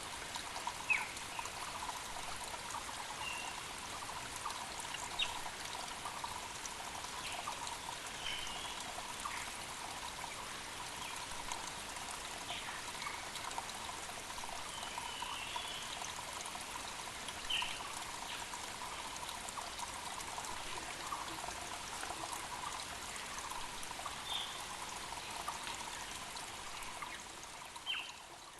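Mountain creek flowing steadily over rocks, with short, scattered bird chirps throughout. The sound fades out at the end.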